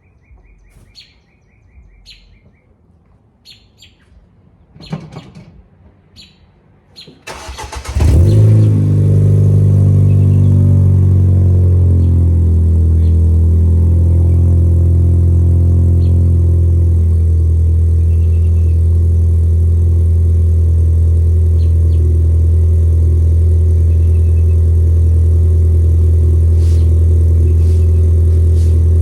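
Ford Fiesta ST's turbocharged engine cranking and starting about seven seconds in, breathing through a newly fitted 2J Racing stainless side-exit cat-back exhaust and downpipe. It flares up briefly as it catches, then eases down and settles to a steady idle. A few bird chirps come before the start.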